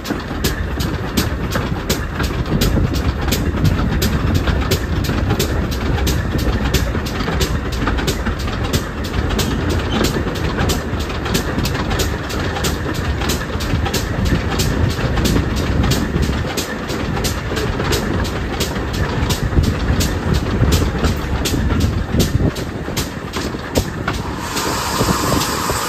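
Steam train hauled by a pannier tank locomotive, running with a steady rumble and an even beat about three times a second. About a second before the end a steady hiss of steam comes in.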